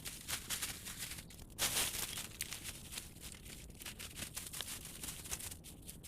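Close rustling and crackling, with many small sharp clicks over a steady hiss.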